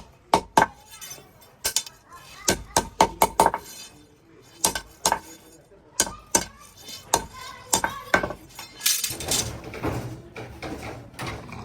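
Irregular sharp metallic clinks and knocks of metal parts being handled and struck in a workshop making heater rods. About nine seconds in, the knocks give way to a steadier noise with a low rumble.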